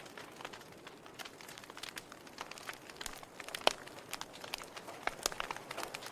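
Wood fire crackling in a fireplace: irregular sharp pops and snaps over a faint hiss, with one louder snap a little past halfway.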